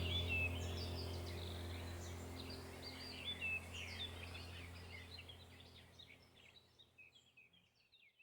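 Birds chirping and twittering over a steady low hum, the whole thing fading out gradually until it is gone near the end.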